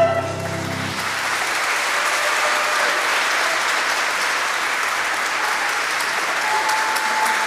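Audience applauding steadily as the closing music ends; the last of the music fades out about a second in.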